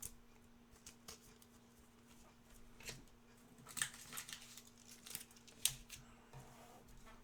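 Faint rustling and light clicks of trading cards being handled and sorted, a few brief sounds scattered through a quiet stretch.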